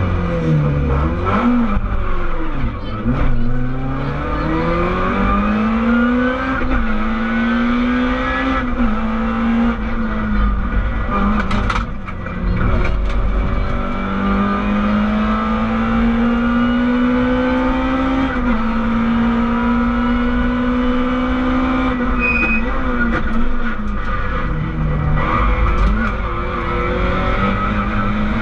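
Rally car engine heard from inside the cabin, running at high revs on a special stage: its pitch climbs steadily and drops back several times as it shifts through the gears, with a few louder knocks around the middle.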